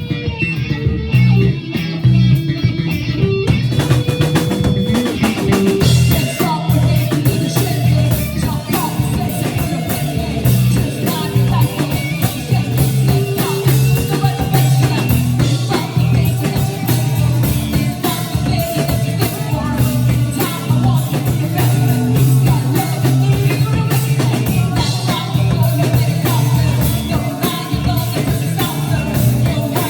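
Live rock band playing: drum kit, electric guitar and bass, with singing. The drums and cymbals come in fuller about three and a half seconds in.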